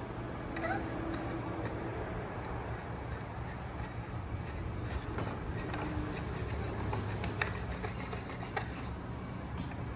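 Steady workshop background hum with scattered light clicks and taps from handling work.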